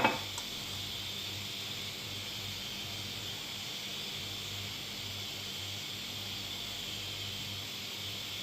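Pressure cooker steadily hissing steam, over a low hum, with one short knock right at the start.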